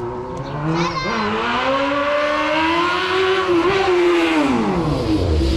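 Dirt bike engine revving for a wheelie: the pitch climbs steadily from about a second in, holds high, then drops back near the end as the throttle comes off.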